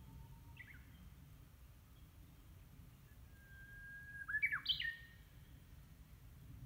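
A bird singing: a long whistled note held for about a second, then a quick run of higher notes, with a short faint call about half a second in.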